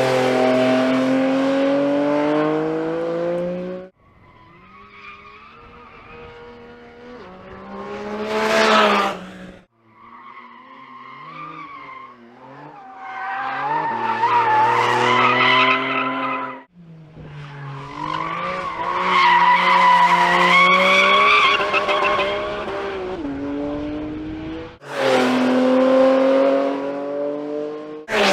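Porsche 718 Cayman GT4 RS's naturally aspirated 4.0-litre flat-six driven hard on track. The engine note climbs and falls with sudden steps in pitch at gear changes, across several passes cut one after another.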